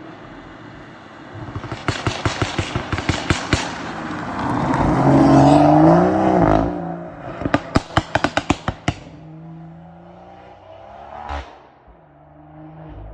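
BMW M240i's turbocharged B58 inline-six, tuned to stage 2 and run catless through an Akrapovič exhaust: strings of rapid exhaust pops and crackles, the engine note rising for a couple of seconds in the middle and dropping off abruptly, followed by another burst of crackles and a single pop near the end.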